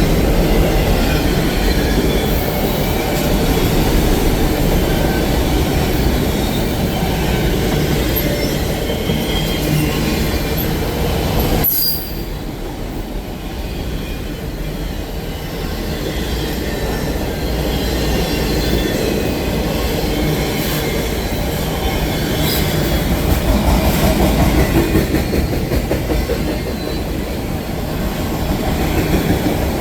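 Train cars rolling past close by in a steady loud rumble, with wheels squealing and some clacking over the rail joints. About twelve seconds in the high hiss cuts off abruptly and the sound turns duller.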